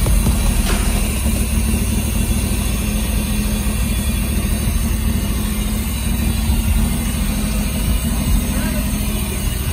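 Pontiac Fiero GT engine in a kit car idling steadily through twin exhaust pipes.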